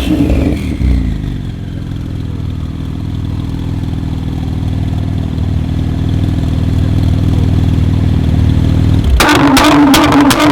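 Tuned car engine and exhaust. The revs fall away after a blip, then settle into a low, steady drone that slowly grows louder. About nine seconds in, a much louder engine note cuts in, with a rapid series of sharp exhaust cracks and pops.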